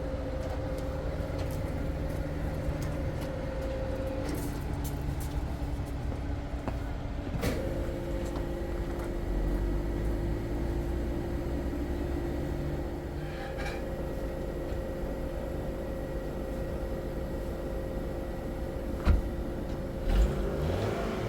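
Car running, its engine hum and road rumble heard from inside the cabin. There is a click about a third of the way in, and two short knocks near the end.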